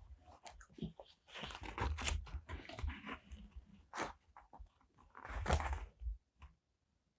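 Paper and stickers handled close to the microphone: crinkling and rustling with a few sharp clicks, in short bursts that stop about a second before the end.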